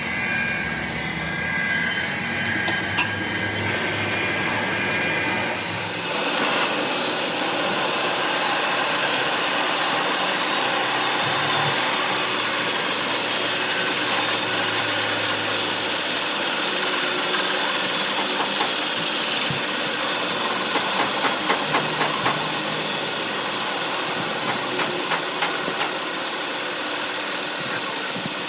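Metalworking machine running steadily with a noisy hiss. About six seconds in the sound turns brighter and hissier, and a run of short ticks comes between about 20 and 23 seconds.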